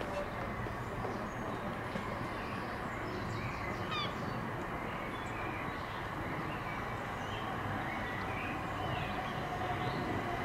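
Railway station ambience: a steady background rumble with a short bird call about four seconds in and a few fainter bird calls later. Near the end a steady hum builds as an electric train approaches.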